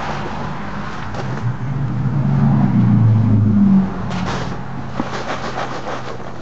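A low engine hum swells over a couple of seconds, then drops off sharply about four seconds in. A few short clicks follow.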